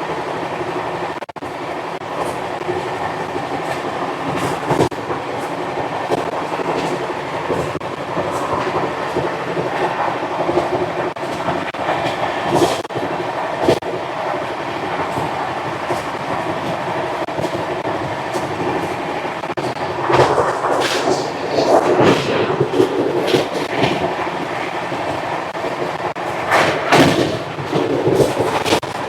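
Indian Railways superfast express train running along the track: a steady rumble of wheels on rail with scattered clicks, growing louder in patches about two-thirds of the way through and again near the end.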